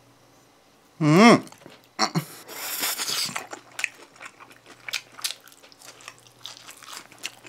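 Close-miked eating of a stretchy sweet-potato cheese stick: a short wavering vocal hum about a second in, a loud noisy stretch just after, then soft chewing with many small wet mouth clicks.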